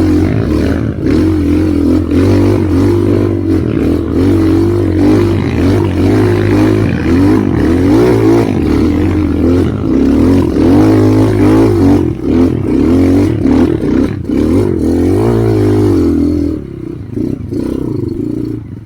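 Trail motorcycle engine revving up and down hard under load as it climbs, with clattering over the engine note; the revs fall away near the end.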